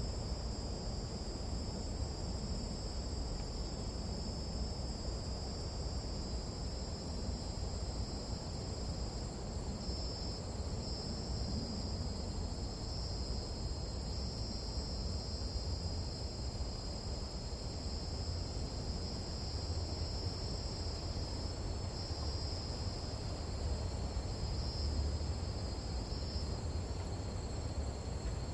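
Chorus of night-calling insects shrilling steadily on two high pitches, over a steady low rumble.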